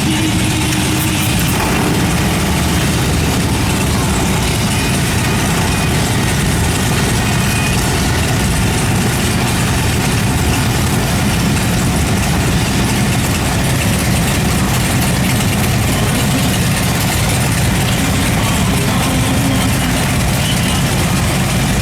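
Harley-Davidson V-twin motorcycle engine running at a steady idle, a loud, even low throb with no revving.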